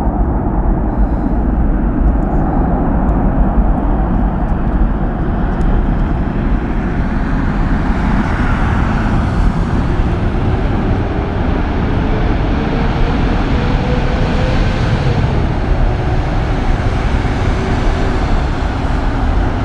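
Boeing 747-400F freighter's four turbofan engines in reverse thrust on the landing rollout: a loud, steady rushing roar. Midway through, a faint whine rises and then falls away.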